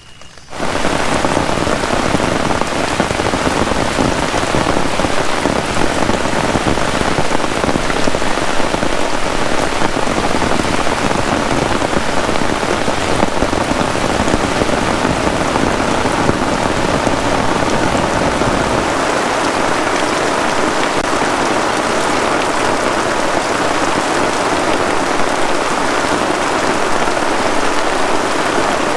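Heavy rain falling steadily in a dense downpour, cutting in suddenly about half a second in.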